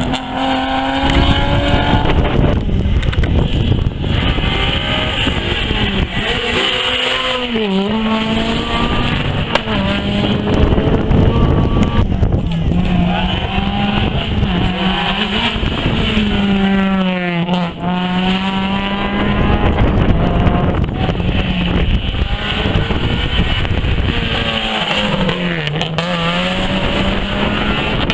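Rally car engines running hard at high revs, the pitch climbing and dropping again and again with gear changes and lifts off the throttle. A deep dip in revs comes about two-thirds of the way through, then rises again.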